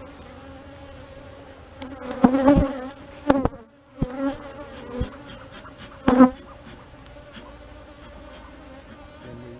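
Honeybees buzzing steadily around an open hive, agitated by the inspection. Several louder knocks break in during the first six seconds or so, with a brief hush just before the fourth second.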